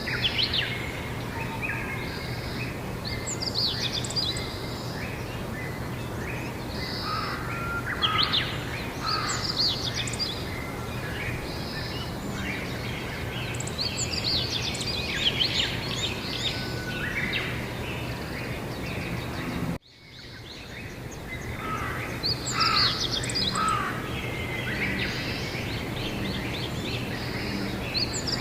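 Several songbirds singing and chirping in short trills and phrases over a steady outdoor background hiss with a low hum. About two-thirds of the way through, the sound cuts out abruptly and then fades back in.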